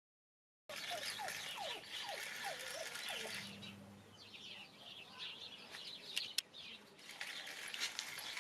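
Many quick, high chirps and squeaks from an animal, with lower sliding squeaks in the first few seconds and a couple of sharp clicks about six seconds in.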